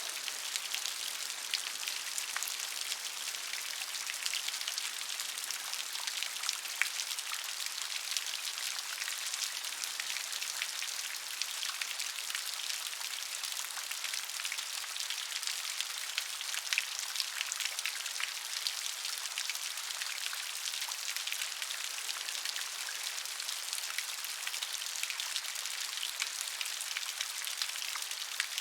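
Steady, gentle rain: an even hiss with many small, distinct drops pattering on a surface, and no thunder.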